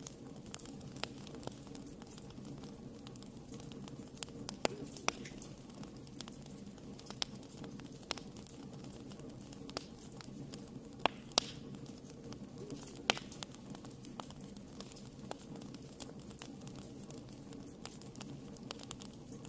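Wood fire burning in a fireplace: a steady low rumble of the flames with irregular crackles and snaps, a few sharp pops louder than the rest about five seconds in and again around eleven and thirteen seconds in.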